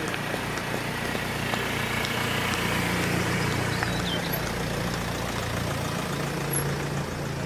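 Renault Mégane estate car's engine running at low speed as it passes close by, growing louder to a peak about three seconds in and then easing off.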